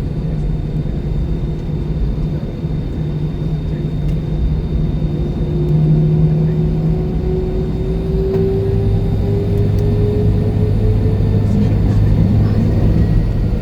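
Airbus A320-214 cabin noise: the CFM56 engines run under a steady low rumble, with a whine that slowly rises in pitch through the middle.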